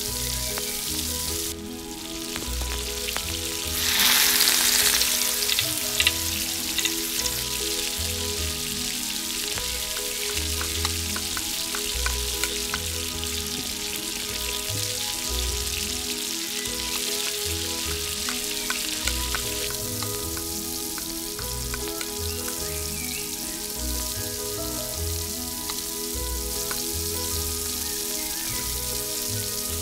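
Food sizzling in oil in a miniature stainless-steel pot, a steady hiss that swells louder for about a second around four seconds in, with scattered small clicks and taps.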